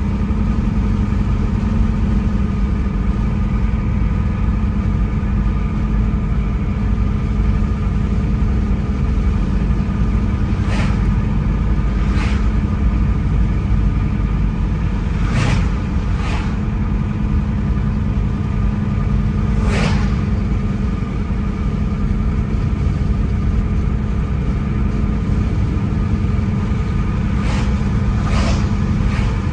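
A car driving along a road, heard from inside: a steady low rumble of engine and tyres, with several short knocks scattered irregularly through it.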